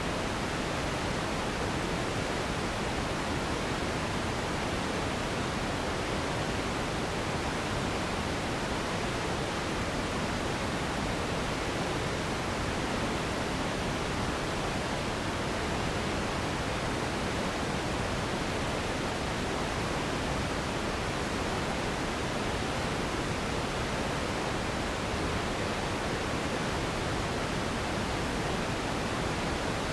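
Steady synthetic pink noise: an even, unchanging hiss weighted toward the low end, with no events or variation.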